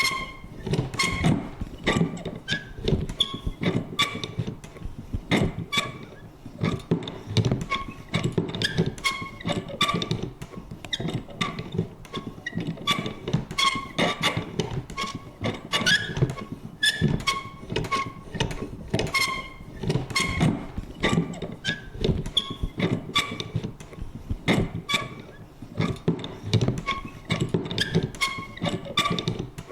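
Vintage paper punch worked over and over: a busy, irregular run of clicks and knocks, several a second, with short squeaky creaks from its mechanism.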